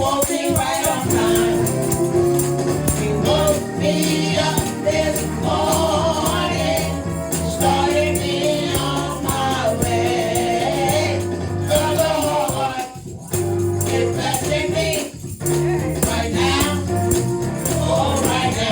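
Praise team singing gospel music in a group, backed by instruments and a steady shaken percussion beat, with a brief dip in loudness about two-thirds of the way through.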